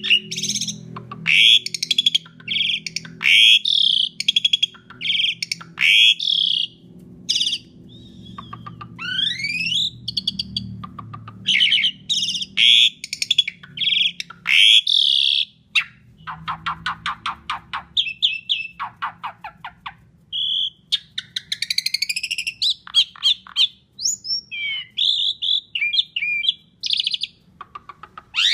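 Asian pied starling singing a loud, varied song: clear whistles and rising sweeps, broken in the middle by fast runs of rattling clicks.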